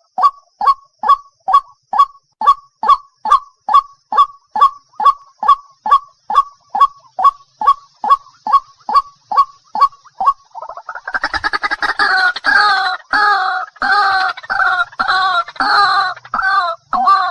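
Waterhen calling: a long, even series of short, falling notes, about two a second. About eleven seconds in it switches to a louder, harsher, repeated two-note croaking.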